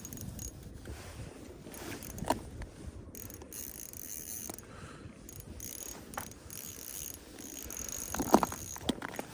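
Ice-fishing reel being cranked, its gears and clicker ratcheting steadily as a hooked fish is reeled up through the hole, with a few sharper clicks about two seconds in and again near the end.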